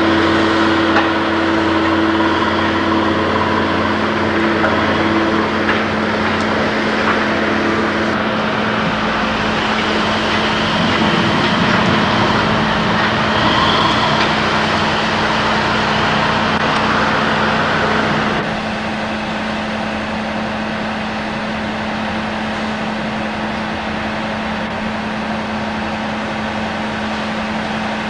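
A steady engine-like mechanical noise with a constant hum underneath, dropping to a lower level about two-thirds of the way through.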